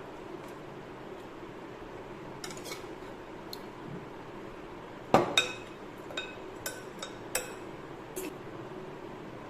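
A metal spoon knocking and clinking against a pressure cooker while rice and chicken are spooned in. There are a few soft clicks, then one sharp knock about five seconds in, followed by half a dozen lighter ringing taps over the next three seconds.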